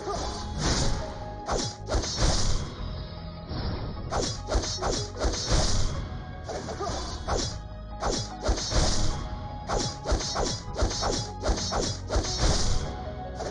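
Repeated hard strikes, one to three a second, each with a sharp hiss, over faint background music.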